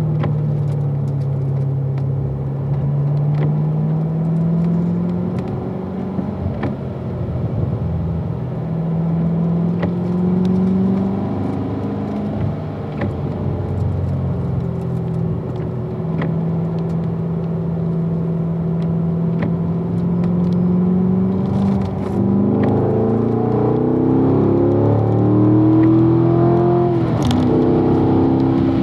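Corvette Grand Sport's V8, heard from inside the car, pulling in third gear at part throttle, its pitch rising and easing with the throttle through the corners. About three-quarters of the way through it accelerates hard, and near the end the pitch drops as it shifts up into fourth.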